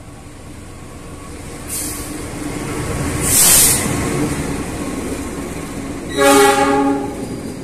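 A train running past on the rails, getting louder, with a sharp high hiss a little after three seconds in. A short horn blast of several steady tones sounds about six seconds in.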